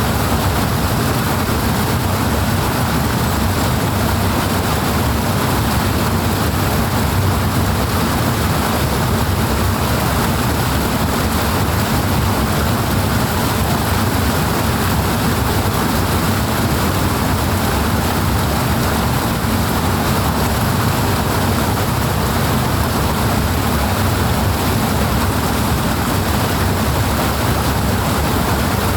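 Water rushing steadily: a dense, unbroken noise, heaviest in the low end, with no change in level.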